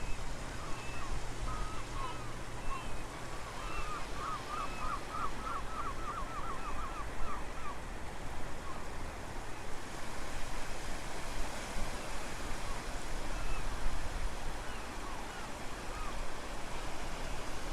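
Wind rumbling on the microphone over steady surf noise, with birds calling: scattered calls, and a quick run of about a dozen repeated notes from about four to eight seconds in.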